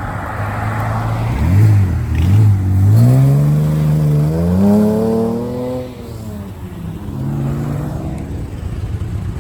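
A vehicle engine blipping twice, then revving up in one long rising pull as the vehicle accelerates away, and easing off near the end.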